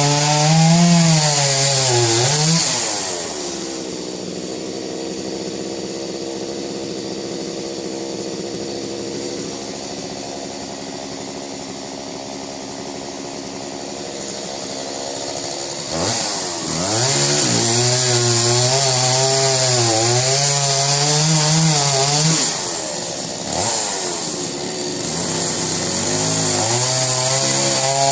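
Chainsaw running at high speed, its pitch wavering up and down as it cuts. It eases to a steadier, lower, quieter tone for a long stretch early on, then speeds up and cuts again, dipping briefly once more near the end.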